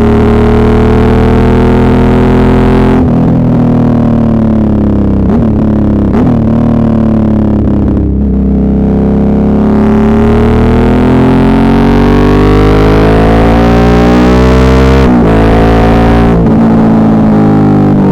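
Suzuki V-Strom 650's V-twin engine under way on the road, its note rising and falling with the throttle. The revs climb steadily through the second half, with brief breaks at gear changes about three seconds in and near the end. Recorded loud and somewhat distorted through an earbud microphone.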